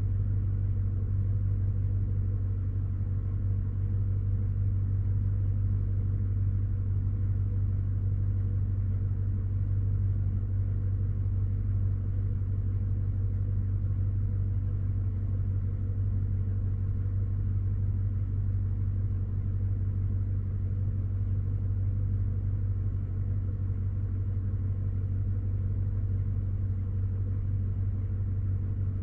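Chevrolet Silverado's V8 idling steadily after a cold start, a low, even rumble with no change in pitch.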